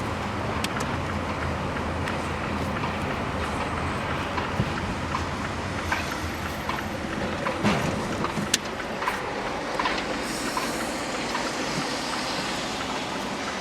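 Steady vehicle noise: a continuous low rumble with occasional sharp clicks.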